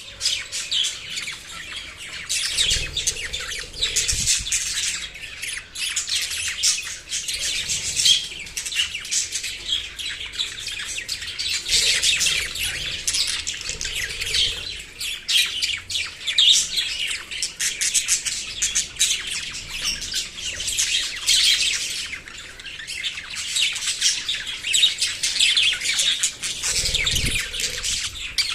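Small pet parrots chirping and chattering, a dense high-pitched chatter that runs without a break.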